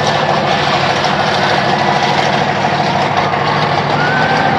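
Monster truck engine running steadily with a low rumble.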